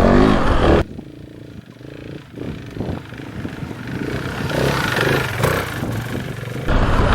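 KTM 690 Enduro R's big single-cylinder engine working hard off-road. The loud rumble cuts away suddenly about a second in, builds back up over the next few seconds, and returns in full near the end.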